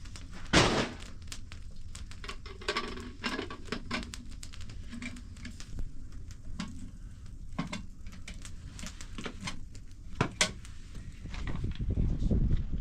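Irregular knocks, clicks and clatter of objects being handled, with a louder knock about half a second in and another about ten seconds in, over a low rumble that swells near the end.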